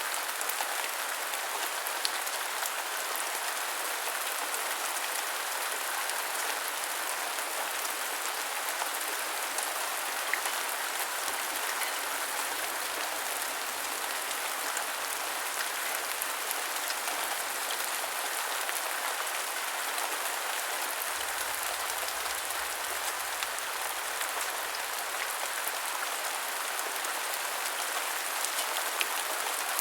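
Steady heavy rainfall, a dense even hiss with scattered sharper drop ticks.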